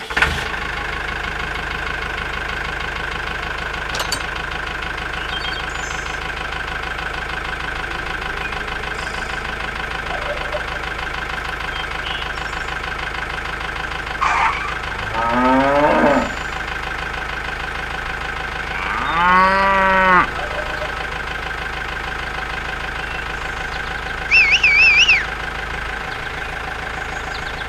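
Tractor engine idling steadily, with two cow moos about halfway through, the first falling in pitch and the second rising and then falling. A brief high warbling chirp comes near the end.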